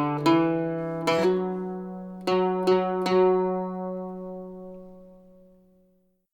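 Slow plucked notes on mandolin and octave mandolin, about six in the first three and a half seconds, then the last notes left ringing and fading away to silence about six seconds in.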